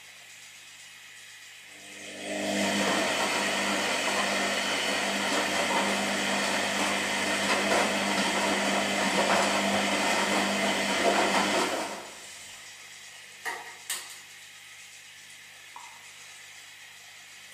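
Washing machine drum turning: a steady motor hum with loud churning noise starts about two seconds in, runs for about ten seconds and stops. Two short knocks follow in the pause.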